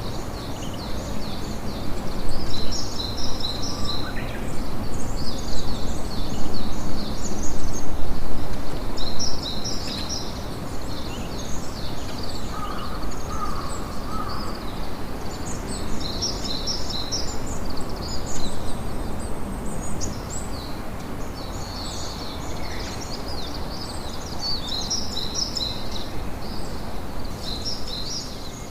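Campfire crackling under the continuous chirping of many small birds, the chirps coming in quick clusters.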